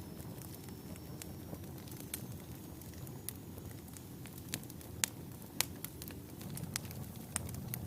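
Wood fire burning in a fireplace: a steady low rumble of flames with scattered sharp crackles and pops from the burning logs, the loudest pops about five seconds in.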